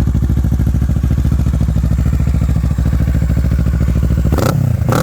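Kawasaki Ninja 650's parallel-twin engine idling steadily through an aftermarket Yoshimura full exhaust. Near the end a few sharp cracks come as the engine note drops.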